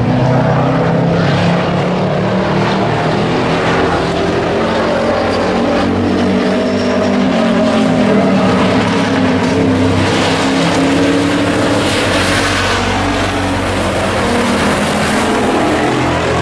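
Several stock race trucks running at speed around an oval, their engines loud and steady, with the pitch rising and falling as trucks pass.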